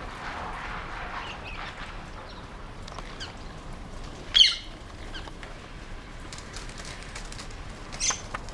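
Rose-ringed parakeets calling in harsh screeches: a loud call about halfway through and another near the end, with softer calls between and a rustle near the start.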